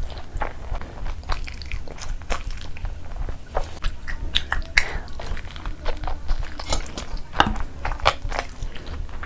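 A person biting and chewing food close to the microphone, mostly sauced fried chicken lollipop eaten by hand: irregular crunchy clicks, several a second, over a low steady hum.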